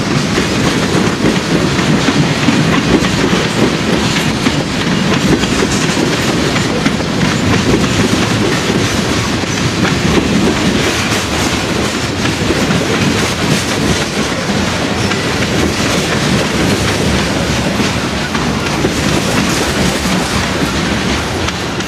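Freight train cars rolling steadily past, wheels clacking over the rail joints.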